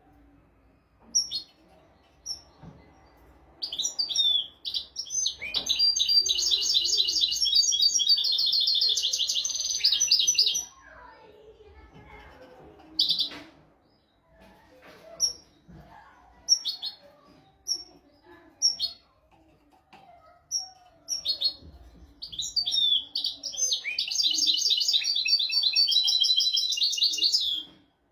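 European goldfinch singing: two long phrases of fast, high twittering trills, each several seconds long, with short single chirps in between.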